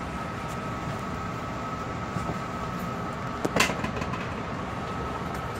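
Long Island Rail Road M3 electric multiple-unit train running on the rails: a steady low rumble with a steady high whine over it, and one sharp clack about three and a half seconds in.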